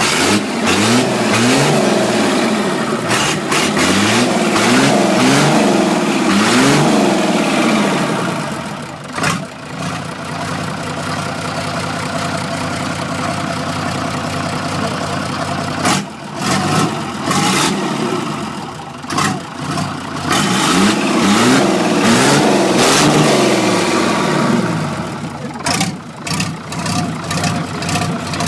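Diesel engine in a ZIL-130 truck being revved up and down repeatedly, settling to a steady idle about nine seconds in, then revved again in a run of rises and falls before dropping back toward idle near the end.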